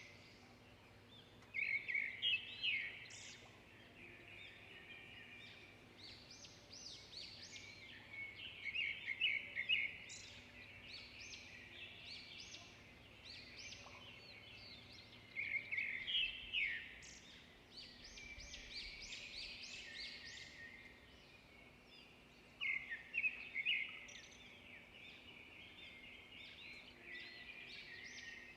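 Songbirds singing and chirping in a continuous chorus of high, quick notes, with louder bursts of rapid chirps every several seconds.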